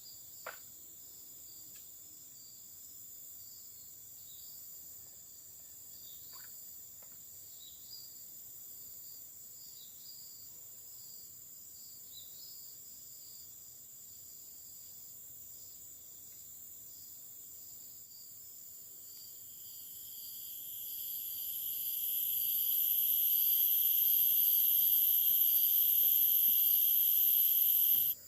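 Forest insects trilling steadily in high, thin tones. Over the last third a much louder insect buzz swells in, holds, and cuts off suddenly.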